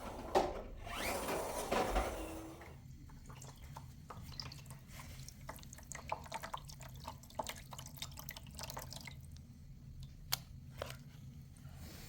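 Water pouring and splashing for about two and a half seconds, then scattered drips and small clicks as food is washed by hand in a bowl of water.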